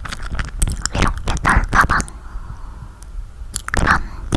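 Close-miked chewing of soft, sticky toasted marshmallow: wet mouth noises with scattered short clicks.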